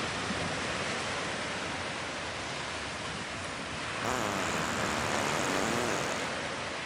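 Sea waves washing steadily, swelling louder for a couple of seconds about four seconds in before easing back.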